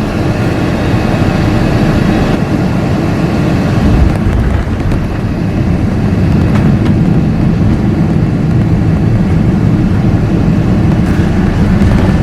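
Loud, steady low rumble of a Boeing 767-400ER jet airliner, heard from inside the cabin as it lands: engine and airflow noise that swells just before and then holds.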